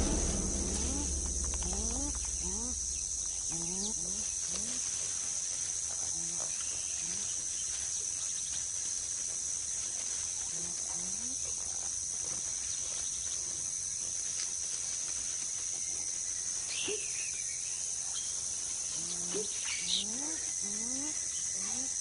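Rainforest ambience: a steady high-pitched drone of insects. Short low calls that rise in pitch come singly and in small runs, and a couple of higher bird chirps sound near the end.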